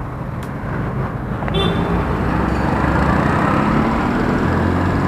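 An engine running close by, with a low hum that grows louder about a second and a half in and then holds steady, over street traffic noise.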